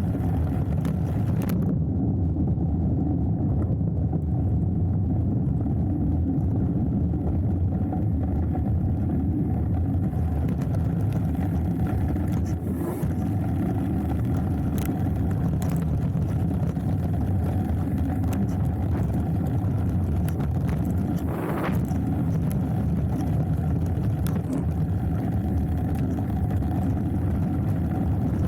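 Steady low rush of wind buffeting an action camera's microphone, mixed with tyre rumble from a hardtail mountain bike riding downhill on a dirt trail. A few sharp knocks from the bike rattling over bumps.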